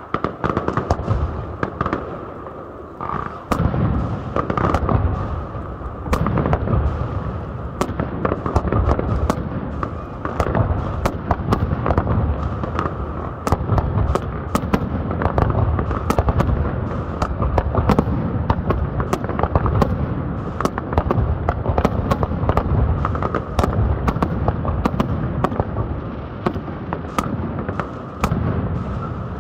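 Aerial fireworks display: a rapid, continuous run of sharp bangs and cracks from bursting shells over a heavy low rumble of booms. It grows denser about three seconds in.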